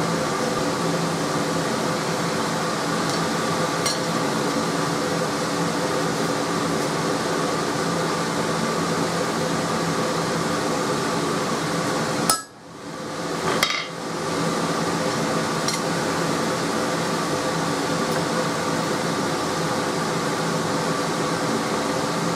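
Steady hum of an electric fan or blower motor running in the workshop. It cuts out abruptly about twelve seconds in for a second and a half, then returns, with a couple of faint ticks along the way.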